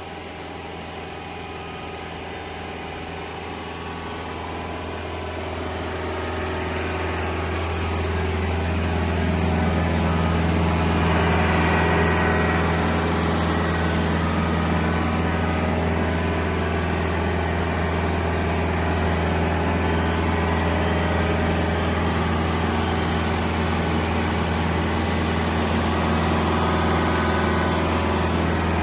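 Engine of heavy equipment running steadily, getting louder over the first ten seconds or so and then holding at a constant pitch.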